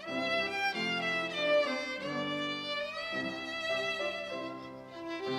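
Instrumental interlude of a choir anthem, with no singing: a single melody line over sustained lower chords.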